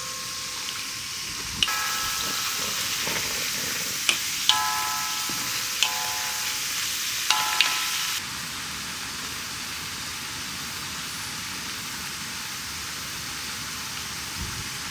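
Food sizzling in a cooking pan, with a few sharp metal clinks that ring briefly, like a utensil or lid striking the pan, over a steady hiss of rain. The sizzle stops about eight seconds in, leaving the rain alone.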